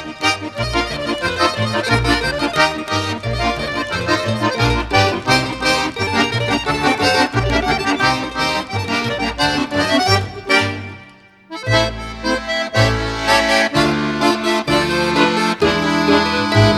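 Accordion-led folk music with a steady bass beat. It breaks off abruptly about ten seconds in and starts again a second later.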